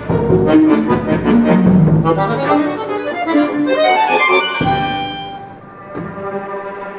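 Accordion playing with a chamber orchestra. Loud pulsing chords give way to a fast run of notes climbing in pitch, then settle into quieter held chords near the end.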